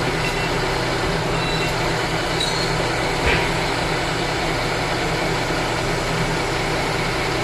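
A steady engine running at a constant pace, with one light knock about three seconds in.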